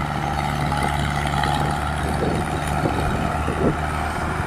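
Tractor diesel engine running steadily with an even low hum.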